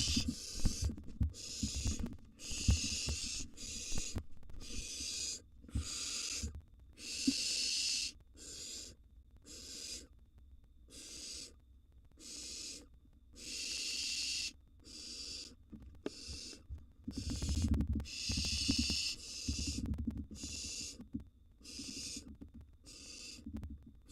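Barn owl nestlings giving their hissing, snore-like begging calls, one raspy hiss after another with short gaps between. Low rumbling thumps from movement in the nest box run underneath.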